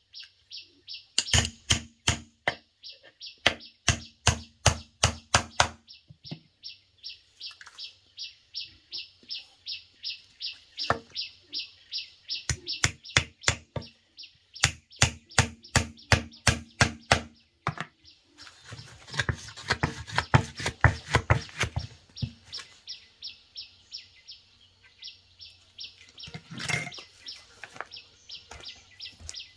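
Quick runs of sharp knocks, like hand-tool strikes on wood, with a rasping, scraping stretch about two-thirds of the way through. Birds or insects chirp steadily and high-pitched throughout.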